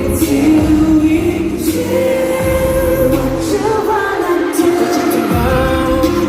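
Live K-pop concert music with singing, loud through the venue's sound system. The bass drops out for a few seconds in the middle and comes back near the end.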